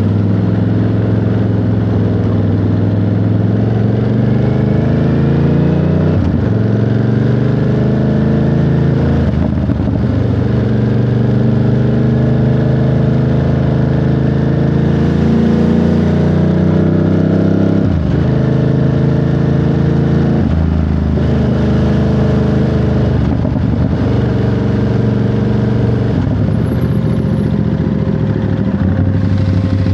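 Ducati Monster 937's Testastretta 90° V-twin under way: the engine note climbs and then drops sharply at each gear change, about six times, and settles to a steady note near the end.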